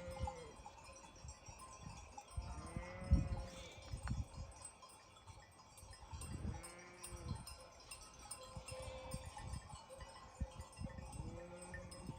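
Sheep bleating: three long, wavering calls a few seconds apart, with low knocks underneath.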